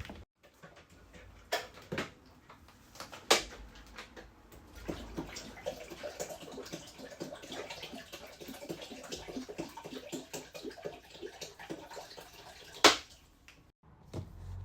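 Water splashing and pattering for several seconds in the middle, with a few sharp knocks, the loudest one near the end.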